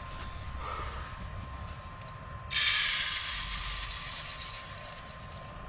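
Rice being washed in a pot: a sudden hissing rush of pouring about two and a half seconds in that fades away over the next two seconds, over a faint steady tone.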